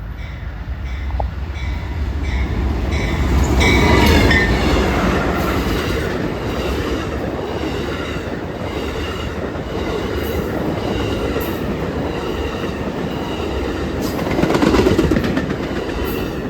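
Amtrak Silver Meteor passenger train rolling past: a steady rumble of steel wheels on rail with clicking over the rail joints. It swells louder about four seconds in and again near the end.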